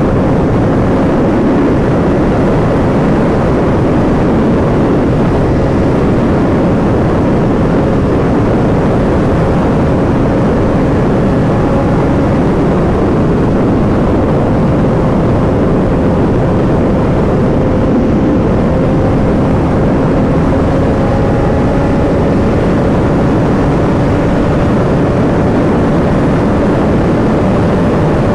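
BMW S1000RR inline-four sport bike being ridden at speed: a steady engine drone under a heavy, constant rush of wind noise, the engine note climbing slowly in the second half.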